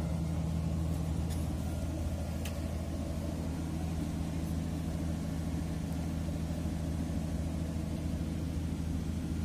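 An engine idling steadily, a deep, even drone.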